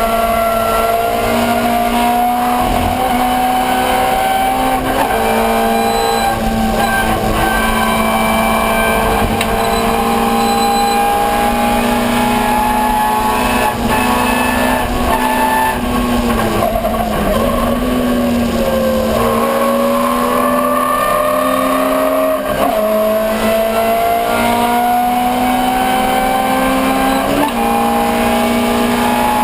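Ford Escort 1300GT race car's 1300 cc four-cylinder engine running hard at high revs, its pitch climbing slowly as the car accelerates. About two-thirds of the way through, the pitch dips briefly as the car slows, then climbs again.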